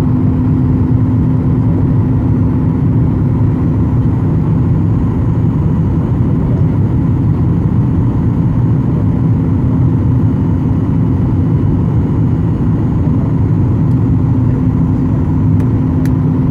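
Steady jet engine and airflow noise heard inside the passenger cabin of a Ryanair airliner in flight: a constant loud rumble with a low, even hum running through it.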